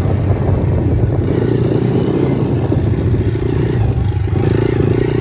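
Honda CRF100 dirt bike's single-cylinder four-stroke engine running while being ridden, its note swelling and easing with the throttle.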